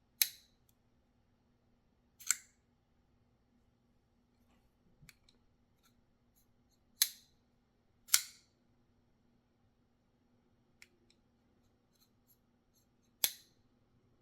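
Titanium framelock flipper knife being flipped open and shut, giving five sharp metallic snaps at uneven intervals, with a few faint small clicks between them.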